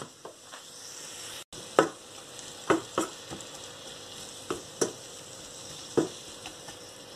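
Chopped chicory and onion sizzling in a hot frying pan while being stirred with a wooden spatula, which knocks against the pan about half a dozen times.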